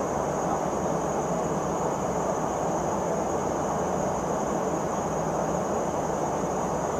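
Steady rushing cabin noise of a Boeing P-8A Poseidon jet in cruise flight, unchanging throughout, with a faint steady high whine above it.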